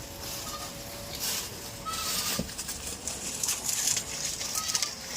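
Goats shuffling and rustling about in a pen, with several short scuffling bursts and a few faint brief chirps.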